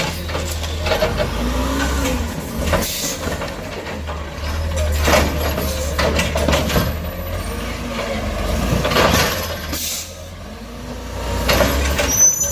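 Garbage truck working: its engine runs with a steady low rumble, its pitch rising and falling twice, with several short hisses and clanks.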